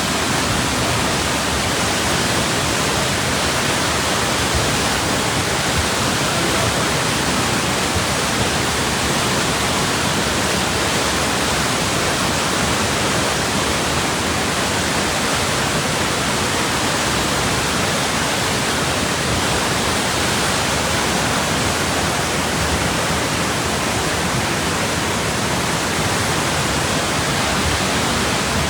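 Floodwater of a swollen river rushing past, a loud, steady wash of noise with no breaks.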